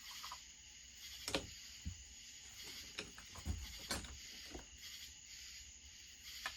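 Hand tools and metal chainsaw parts clinking and knocking on a workbench during a teardown: about half a dozen short, separate knocks and clicks. Insects chirr steadily behind them.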